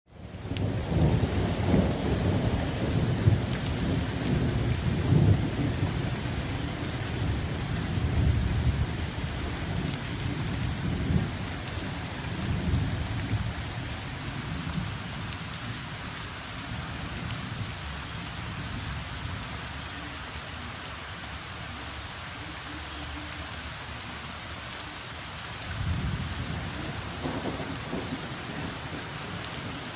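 Steady rain falling, with scattered sharp drips, while thunder rumbles heavily for the first dozen seconds and dies away; a second roll of thunder comes near the end.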